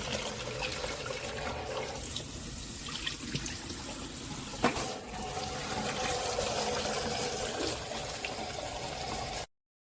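Kitchen tap running into a sink as a vacuum dust cup is rinsed under it, a steady splashing of water, with a single sharp knock about halfway. The sound stops abruptly near the end.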